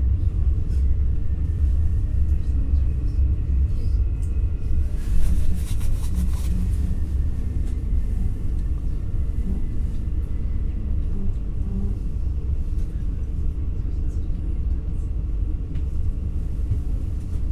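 Cabin interior of an NS Intercity New Generation (Alstom Coradia Stream) electric train running: a steady low rumble of the running gear and track, with faint steady high tones in the first few seconds. A brief hissing rush comes about five seconds in.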